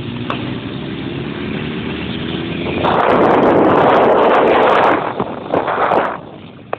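Motorbike engine accelerating, its pitch rising steadily, then a loud rush of wind on the microphone for about two seconds, which dies away near the end.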